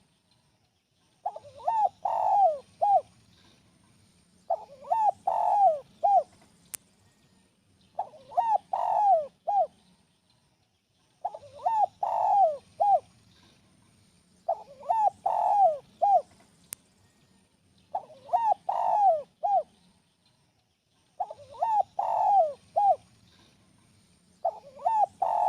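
Spotted dove (tekukur) cooing its song: a short phrase of several coos, repeated about every three and a half seconds, seven times over.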